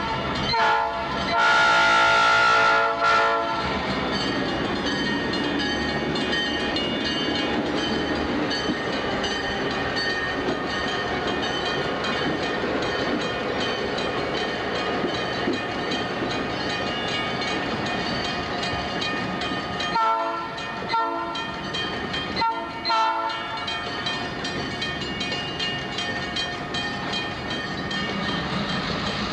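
Diesel freight train led by F-unit locomotives running with a steady rumble. Its multi-chime air horn sounds one long blast a second or two in, then a few short blasts about twenty seconds in.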